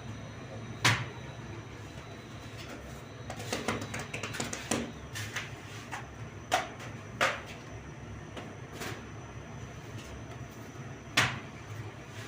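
Scattered sharp knocks and a short run of clattering clicks over a low steady hum.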